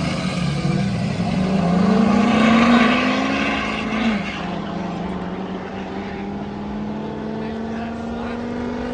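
Car engine running under acceleration. Its pitch climbs for a couple of seconds, drops sharply about four seconds in, then holds and rises slowly again.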